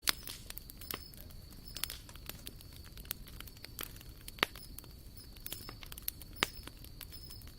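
Wood campfire crackling, with irregular sharp pops and snaps; the loudest pops come about midway and again near the end.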